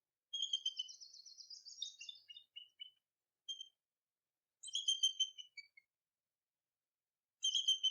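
Bald eagle giving its high, thin chittering call: quick series of piping notes that step down in pitch, in bouts near the start, around the middle and at the end.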